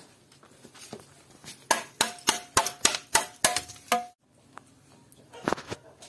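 A metal tool tapping bricks being set in mortar: about eight quick, ringing taps over two seconds that cut off suddenly, then one more tap near the end.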